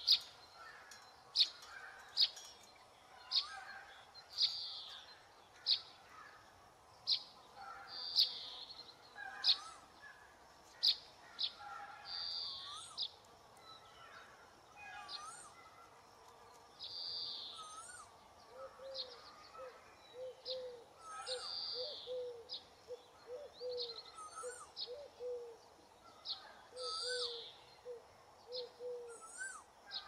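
Birds calling: a mix of sharp chips and chirps, short rising whistles, and, from past the halfway point, a run of short low repeated notes.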